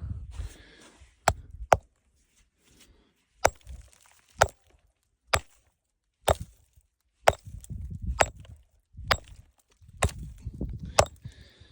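A rock being struck hard again and again, about eleven sharp cracking blows roughly a second apart, without it breaking.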